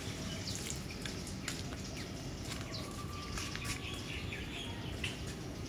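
Birds chirping in short, scattered calls over steady low background noise.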